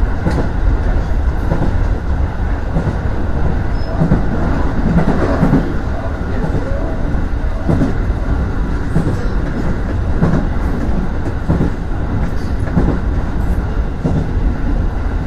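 Aonami Line electric commuter train running at speed, heard from inside the cab: a steady low rumble of wheels on rail, with a clack over the rail joints about every second and a quarter.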